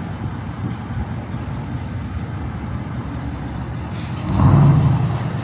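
Vehicle engine running steadily, with a low rumble that swells louder for about a second about four seconds in.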